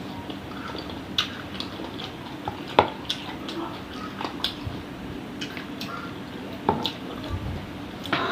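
Close-up eating sounds of chicken-feet satay: wet chewing and mouth smacks, with scattered sharp clicks, the loudest a little under three seconds in.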